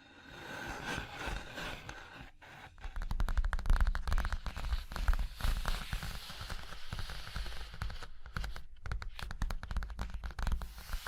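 Rapid tapping and scratching on objects close to the microphone. It starts soft and scratchy, then turns into a dense flurry of quick taps about three seconds in.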